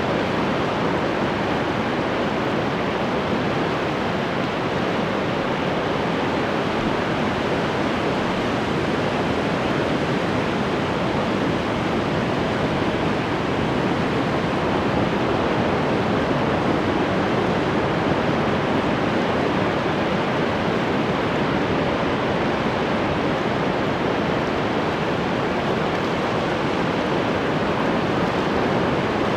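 Ocean surf washing continuously, a steady dense rush with no distinct breaks or individual wave crashes standing out.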